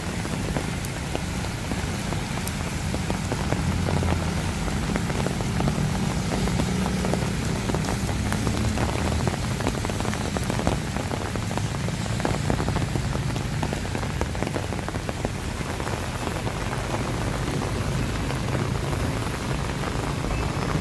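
Steady rain falling on hard surfaces, with many sharp, close drop ticks over an even hiss and a low rumble underneath.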